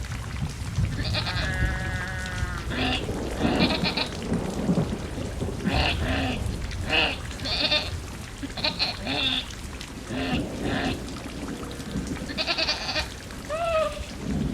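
Steady rain with a low rumble of thunder. Over it come many short, pitched animal calls, some in quick pairs, and one call is briefly held.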